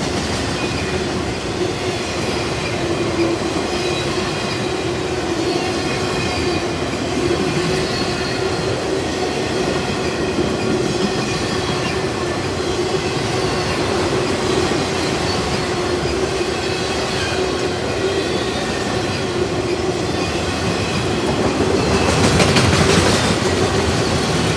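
Freight train cars rolling past on steel rails, a steady rumble with wheel clatter and thin, high wheel squeal. It grows louder near the end.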